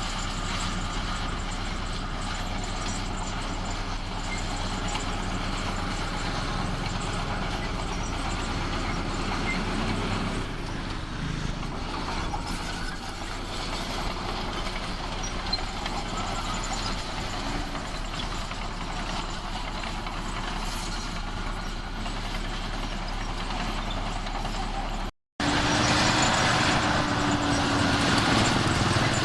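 Diesel engine of heavy earthmoving machinery running steadily. A brief dropout comes near the end, after which the engine sound returns somewhat louder.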